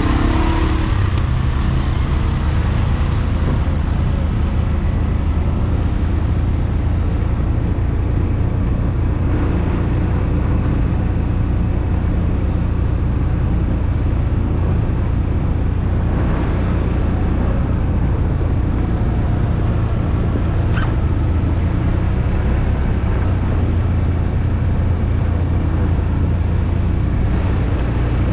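ATV engine running steadily while riding, a constant low drone with no let-up.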